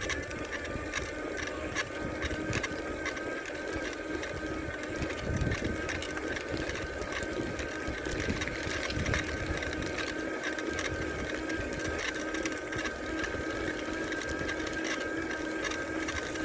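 Electric bike's assist motor running under load while climbing a hill with pedalling, a steady whine of several held pitches over a rough hiss and faint ticking.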